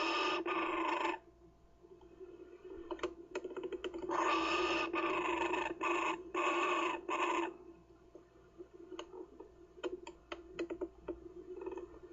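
Kookaburra chick giving harsh, rasping calls: one at the start, then a run of four or five short calls back to back about four seconds in. Scattered clicks fall between the calls, over a steady low hum.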